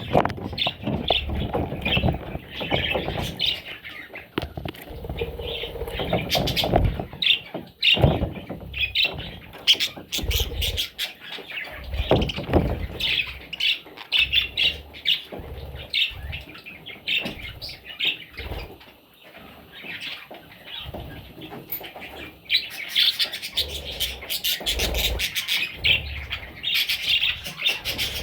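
Parrot chicks chirping and squawking in a dense, continuous chatter, mixed with irregular low thumps and rustles.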